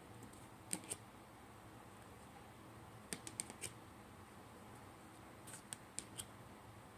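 Tarot cards being handled and set down one by one: short crisp card clicks in small clusters, two about a second in, four around three seconds, and three more near six seconds, over faint room tone.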